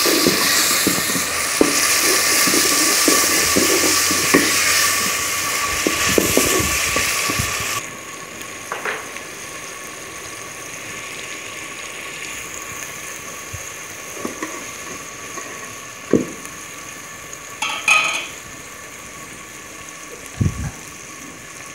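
Onions and ground tomatoes sizzling in hot ghee in an aluminium pot, stirred with a metal spoon that scrapes and knocks against the pot. The sizzle is loud at first and drops suddenly to a quieter sizzle about eight seconds in, with occasional scrapes after that.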